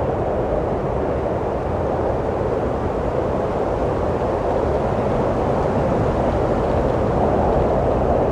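Steady wind blowing: an even, low rushing noise that swells slightly near the end.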